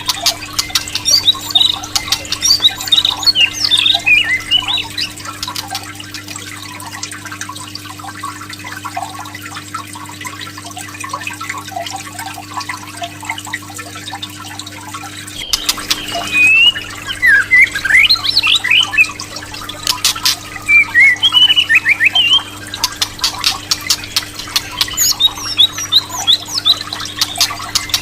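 White-rumped shama (murai batu) bait recording: rapid chirping song phrases and sharp clicking calls, over a steady low electrical hum. There is an abrupt splice about halfway through, after which the bird's phrases come louder and faster.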